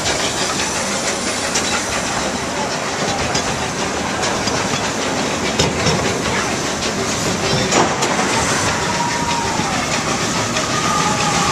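Amusement-park train running along its track, heard from aboard a passenger car: a steady rumble and hiss with occasional sharp clacks, the loudest about five and a half and eight seconds in.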